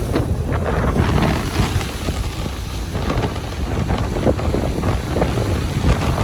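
Ocean surf on a beach, with wind buffeting the microphone in a steady low rumble and irregular gusts.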